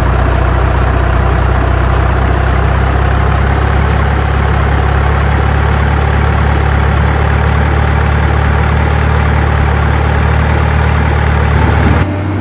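A heavy engine idling steadily, a deep even hum that cuts off abruptly near the end.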